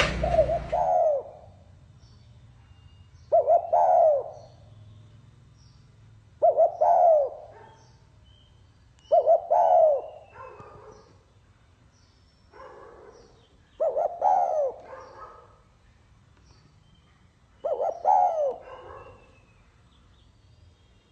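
Spotted dove cooing in the 'pha kim' voice, a short phrase repeated six times every three to four seconds, with one fainter phrase midway. Faint high chirps of other small birds lie behind it.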